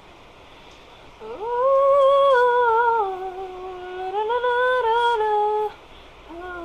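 A woman humming a wordless melody with no accompaniment: her voice comes in about a second in, rises and holds, dips, rises again, and stops shortly before the end.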